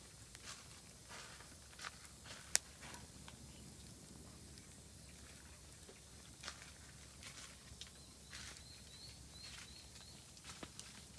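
Oak firewood crackling in a campfire, with irregular small snaps and one sharp pop about two and a half seconds in. Near the end a bird gives a quick series of short, high chirps.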